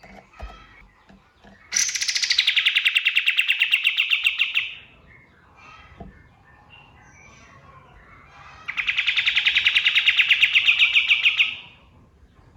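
Kapas tembak songbird singing two long rapid trills, each about three seconds, of fast repeated sharp notes, with faint chirps between them.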